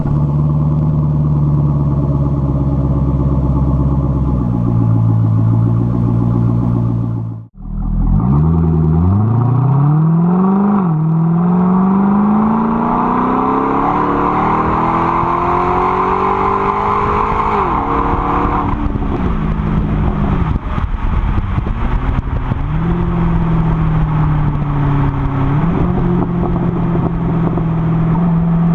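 C6 Corvette's LS2 V8 running through a B&B aftermarket exhaust, holding a steady note for about seven seconds. After a sudden break it accelerates hard: the pitch climbs, dips once at an automatic upshift, and climbs again for several seconds. It then drops off and settles into a steady drone.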